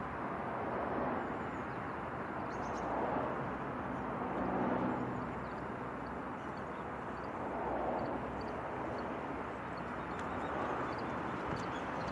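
Sea surf breaking and washing up the shore, a steady rush that swells and eases every few seconds.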